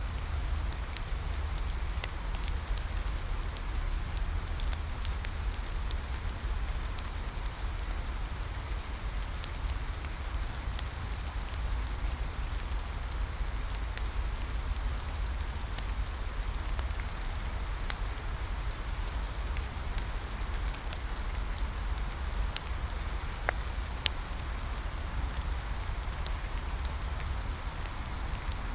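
Steady rain with a low rumble underneath, mixed with the crackle of a wood bonfire: scattered sharp pops and clicks, one louder pop a little past three-quarters of the way through.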